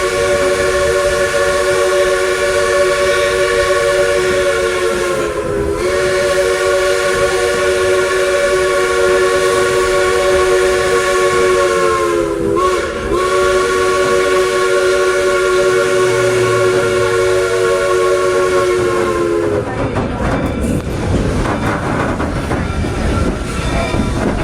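A train whistle held as one long chord of several notes, which sags in pitch twice and cuts off about twenty seconds in. After that comes the clatter and rumble of the train.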